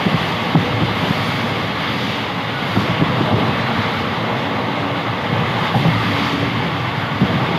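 Moving passenger train heard from on board: a steady rumbling rush with irregular low knocks of the wheels running over the track.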